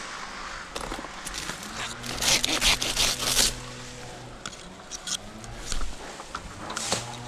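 Hand pruning saw rasping through palm wood, with a quick run of strokes about two seconds in and a few scattered strokes after.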